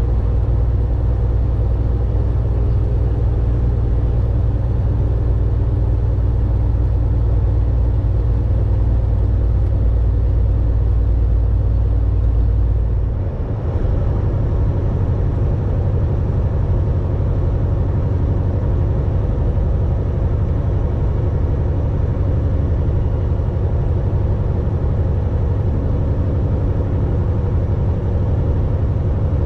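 Volvo VNL 860 semi truck driving, a steady engine and road drone. About halfway through, the deepest part of the drone drops away with a brief dip in loudness, and a lighter steady hum carries on.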